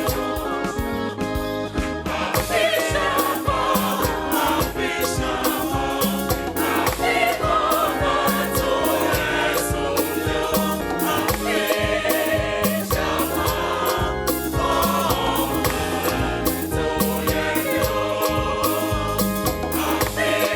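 Choir singing gospel music with a band backing, over a steady beat and bass.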